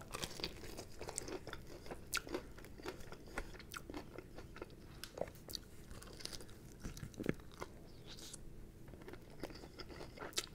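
A man biting and chewing a sauced chicken wing close to the microphone, stripping the meat off the bone: scattered small clicks and crunches of eating, fairly faint.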